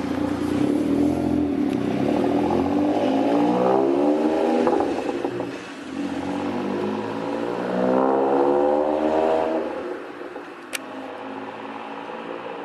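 Three-cylinder car engine revving up twice, its pitch climbing for a few seconds each time and dropping back in between and near the end.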